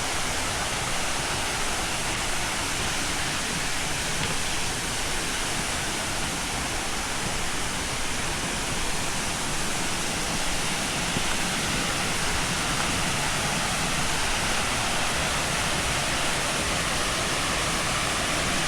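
Waterfall roaring steadily: a dense, even rush of falling water with no let-up.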